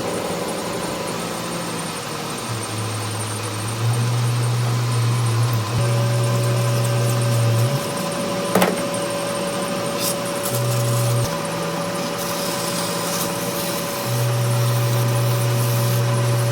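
A machine or power tool running, with a strong low hum that steps on and off in blocks of a few seconds as the load changes, and a single sharp knock about eight and a half seconds in.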